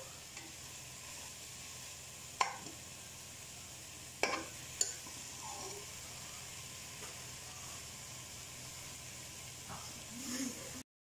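Minced chicken and onions sizzling in a steel pot as a slotted spatula stirs them, with a steady hiss throughout. The spatula knocks sharply against the pot about two and a half seconds in and twice more around four to five seconds in, and the sound drops out completely just before the end.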